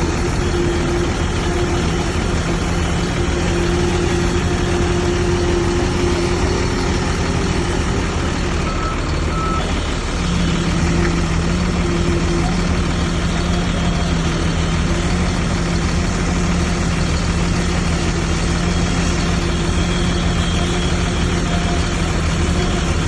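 Heavy diesel engine of earthmoving machinery running steadily and loudly, its note shifting a little about ten seconds in.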